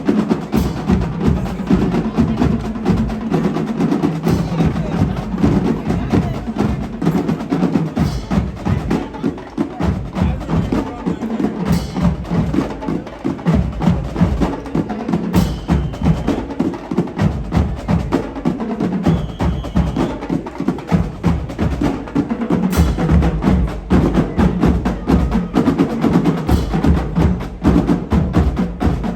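Percussion ensemble drumming: a dense, fast run of drum hits that goes on without a pause.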